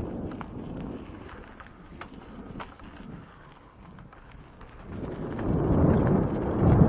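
Wind buffeting the microphone of a camera riding along on a bicycle on a dirt trail, a low rumble with scattered light clicks and rattles from the bike and the trail. The rumble swells loud about five seconds in, as the bike picks up speed.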